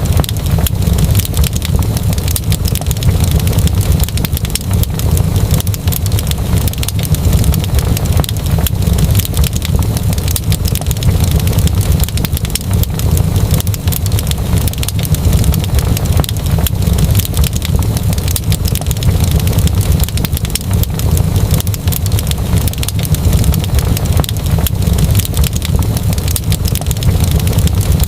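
Wood fire crackling in a fireplace: a dense run of sharp pops and crackles over a steady low rumble.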